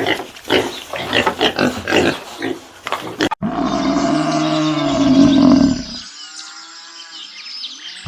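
A dog panting rapidly. After an abrupt cut comes a loud, drawn-out low animal call of about two and a half seconds, then fainter wavering calls.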